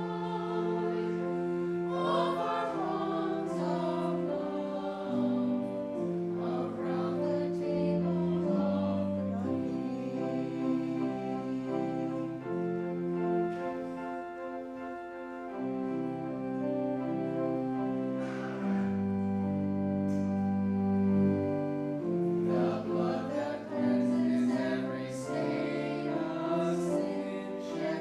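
A choir singing a slow piece in held chords over instrumental accompaniment.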